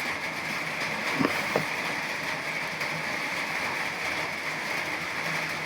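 Steady rain falling, an even hiss of rain on surfaces, with two brief knocks about a second and a half in.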